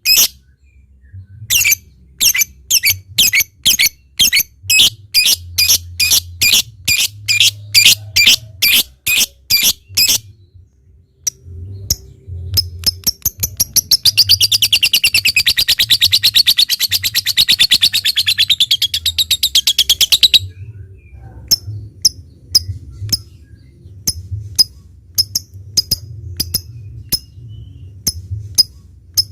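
Lovebird calling: a run of loud, sharp, high chirps about two a second, then rapid typing-like clicking ('ngetik') that runs about halfway in into a long, fast chattering trill ('ngekek panjang') lasting some six seconds. After the trill come quieter single chirps about once a second.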